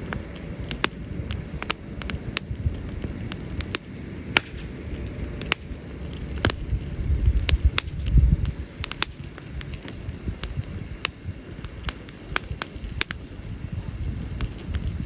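Burning firewood in a campfire crackling and popping irregularly, with dozens of sharp snaps spread throughout, over a low rumble that swells about eight seconds in.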